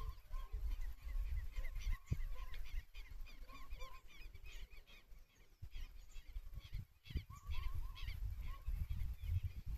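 Wild birds calling in quick series of short, honking chirps, several at once, over a low rumble.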